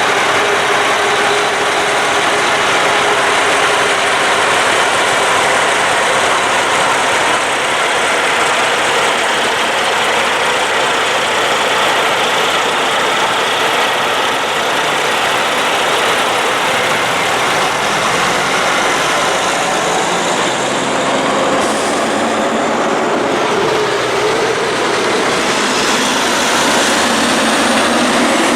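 Heavy-haulage truck diesel engines running, a loud steady rumble with an engine note that rises near the end.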